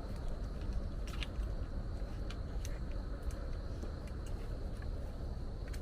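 Steady rain, with a few sharp taps scattered through it.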